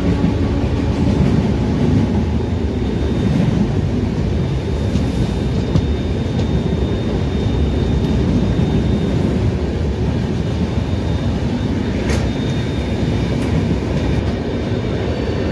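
Steady rumble of wheels on rails and rushing air at the open coach door of an express train running at speed, with a second passenger train running alongside on the next track. A single sharp click about twelve seconds in.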